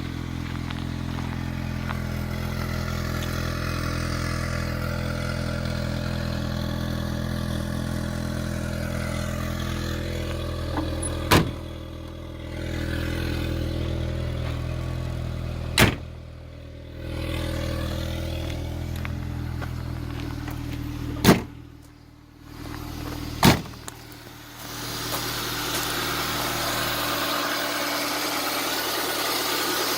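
Nissan SR20 four-cylinder engine idling steadily. It is broken four times by a sharp click, each followed by a brief drop in level. Near the end a hissier noise takes over as the engine's low hum fades.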